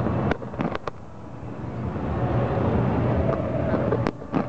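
Fireworks display: a steady low rumble, with a few sharp cracks about half a second in and again near the end.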